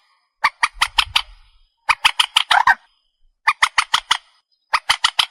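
Trích ré (swamphen-type waterbird) calling in quick harsh bursts. Each burst is four to six sharp notes, and the bursts repeat every second or so: a lure recording made to draw the birds in at night.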